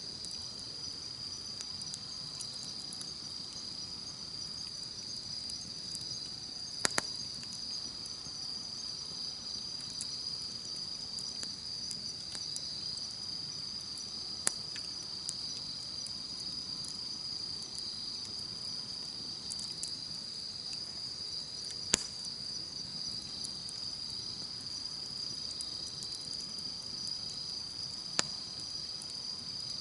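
Wood campfire crackling with small ticks and four sharp pops, over a steady high chirring of insects.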